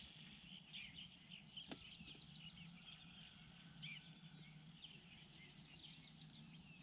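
Faint birdsong: small birds twittering in many short, quick chirps, over a faint steady low hum. A single light click a little under two seconds in.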